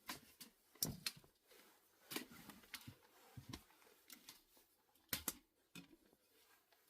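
A quiet, enclosed space with a dozen or so light, scattered clicks and knocks at uneven intervals.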